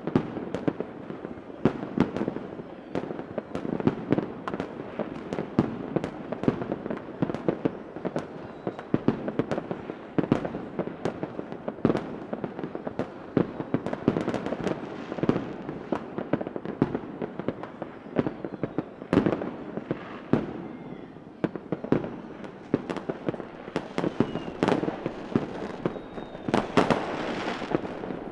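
Fireworks going off in a dense barrage: many sharp bangs and pops, several a second, over a continuous crackle, with a brighter fizzing burst near the end.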